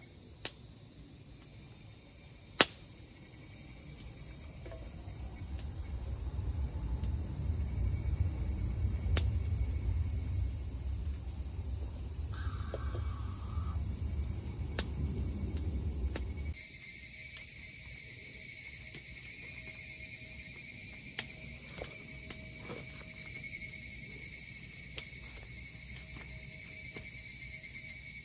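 Insects singing in a steady, high-pitched chorus. A low rumble joins in about a third of the way through and stops suddenly past the middle, and a few sharp clicks sound early on, the loudest at about two and a half seconds.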